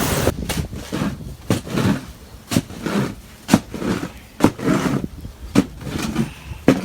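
A series of sharp crunches or knocks with dull thuds under them, irregularly spaced about a second apart.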